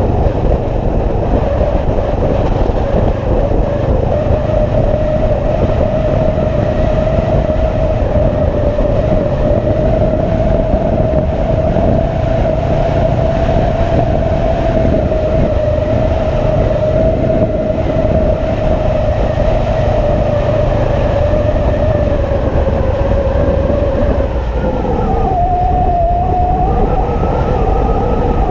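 Motorcycle running at a steady cruising speed, its engine drone holding one steady pitch under a heavy rumble of wind on the microphone. Near the end the pitch dips briefly and then settles a little higher, as with a change of throttle or gear.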